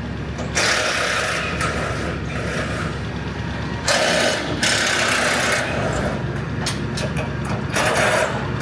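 Diesel engine of a demolition machine running steadily. Over it come two long stretches of loud scraping, rushing noise, then a quick run of clattering knocks near the end as barn debris is broken up and moved.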